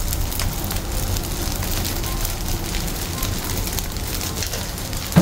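Fried rice sizzling steadily in a hot pan, with fine crackling and a short knock near the end.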